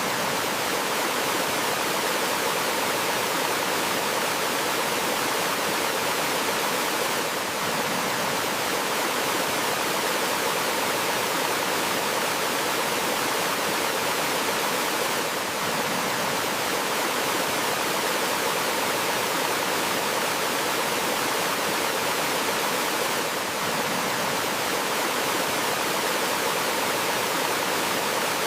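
Gently flowing stream water, a steady, even rush with slight brief dips about every eight seconds.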